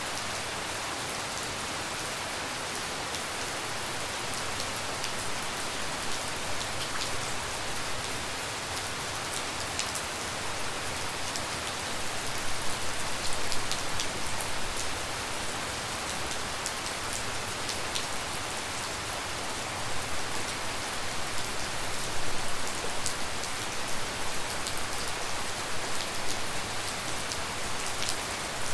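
Steady tropical rain falling at night, an even hiss with the crisp ticks of separate drops hitting close by. It grows heavier and more uneven about halfway through and again in the last third.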